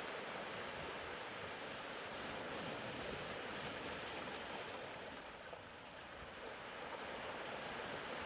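Soft background sound of ocean surf, a steady hiss that eases a little partway through and then swells back.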